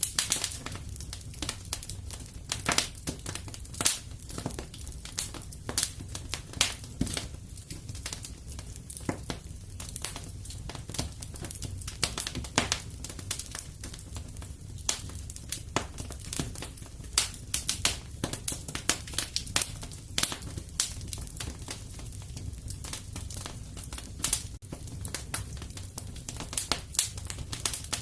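Wood fire burning in a fireplace: irregular crackles and pops over a low steady rumble of the flames.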